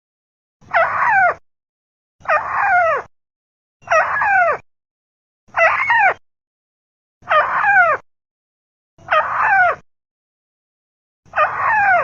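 Repeated call of a crake (Indonesian 'burung tikusan'), played back from a looped lure recording. Seven short calls, each a quick falling glide, come about every one and a half seconds with silence between.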